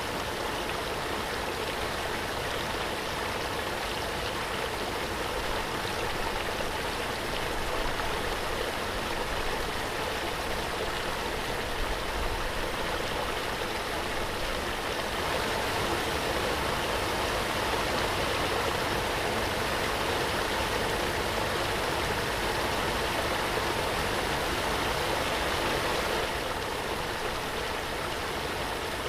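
Waterfall: a steady, even rush of falling, splashing water. It gets slightly louder about halfway through and eases back near the end.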